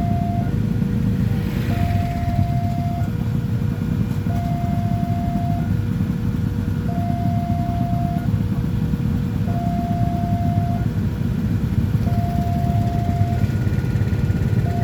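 Railway level-crossing warning alarm sounding a steady two-tone signal, a higher and a lower tone taking turns about every second and a half, the signal that a train is approaching and the gates are closed. A steady low rumble runs underneath.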